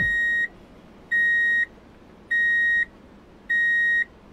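Electronic beeping: a steady high-pitched beep about half a second long, repeating evenly about once every 1.2 seconds, four times, in the pattern of a reversing alarm.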